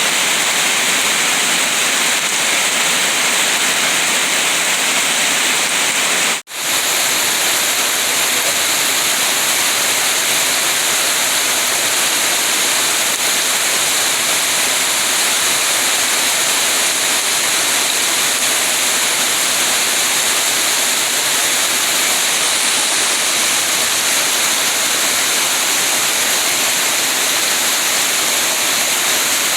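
Steady, even rain hiss with no distinct drops or rhythm, cutting out for an instant about six seconds in before resuming.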